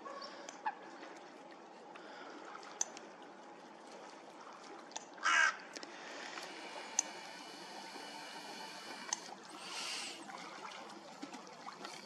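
A single short, harsh caw from a bird about five seconds in, over a faint background with scattered small clicks and a brief soft hiss near the end.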